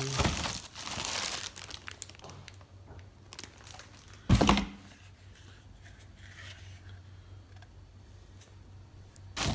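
Packaging crinkling and rustling as accessories are pulled out of the vacuum cleaner's box, with one sharp thump about four seconds in.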